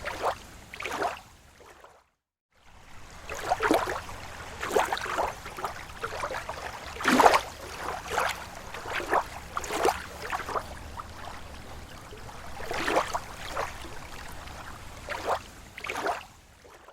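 Small waves lapping against a lake shore: irregular soft splashes and gurgles, one every half second to a second. About two seconds in the sound drops out to silence for half a second.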